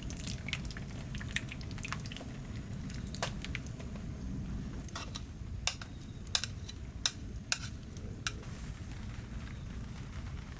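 Cooking at a camp stove: scattered light clicks and taps of utensils against a pan and dishes, about twenty at uneven intervals, over a steady low rumble.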